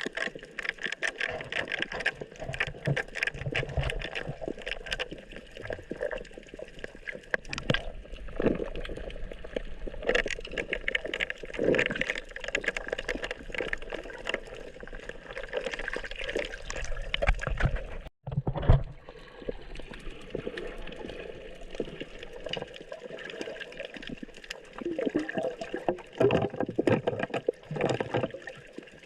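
Sea water splashing and gurgling around a boat, in a busy irregular run of small slaps and sloshes.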